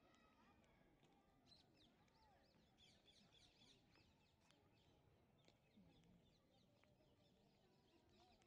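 Near silence, with faint birds chirping in the background, the chirps thickest around three to four seconds in.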